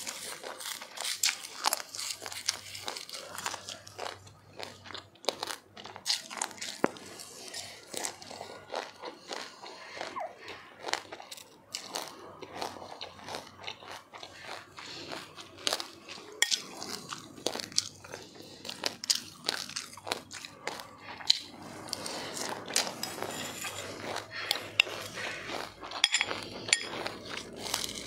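Close-up crunching and chewing of ice with sesame seeds: many sharp, crisp crunches in quick succession as mouthfuls are bitten and ground.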